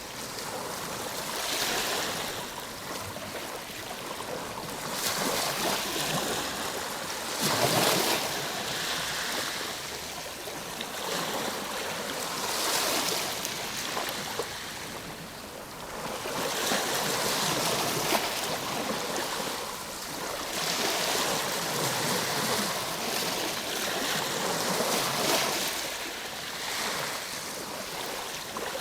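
Ocean waves breaking and washing on the shore, a steady surf with a swell every few seconds, the biggest about eight seconds in.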